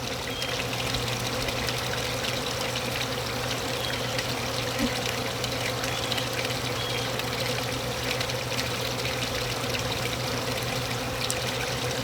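A dense, steady buzz from many honey bees swarming and feeding on an extracted honey frame, a feeding frenzy. It is a continuous hum with an even hiss over it.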